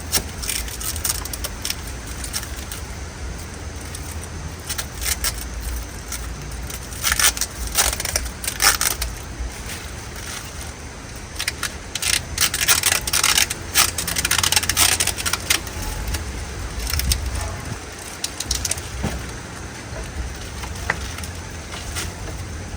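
Mower parts and packaging being handled during assembly: scattered rustles, clicks and light clatter, in bunches about a third of the way in and again past the middle, over a steady low rumble.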